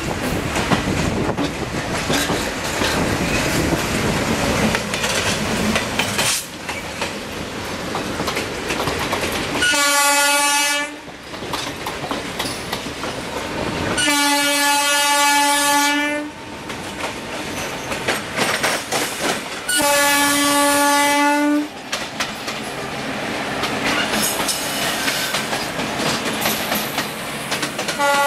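Indian Railways diesel train running past with wheels clattering over the rail joints. Then the diesel locomotive's horn sounds three blasts a few seconds apart, each one steady tone, the middle one the longest, and a fourth blast starts at the very end.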